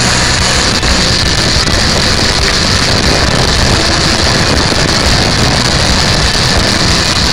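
Honda VTR1000F Firestorm's 90-degree V-twin engine running steadily while the bike cruises, under a loud, constant rush of wind and road noise.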